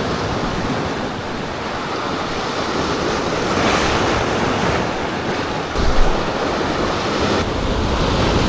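Ocean surf breaking and washing steadily. Wind buffets the microphone, adding a low rumble from about six seconds in.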